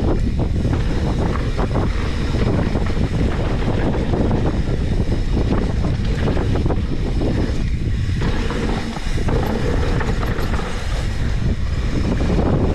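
Wind buffeting the microphone while riding, a steady loud rush over a low rumble.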